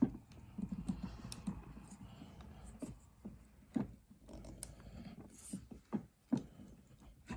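Scattered light clicks and knocks from parts of a bean-to-cup espresso machine being handled, with no motor or pump running.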